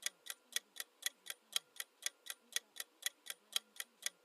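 Clock-ticking sound effect of a quiz countdown timer, sharp even ticks about four a second.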